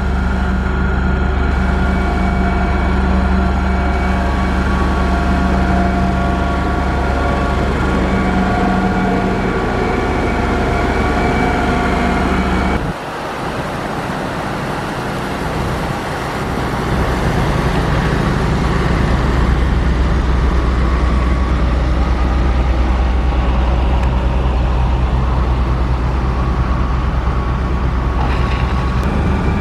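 Diesel engine of heavy road-construction machinery running steadily. About 13 seconds in the sound changes abruptly, dipping briefly in the low end, before a steady, louder drone takes over.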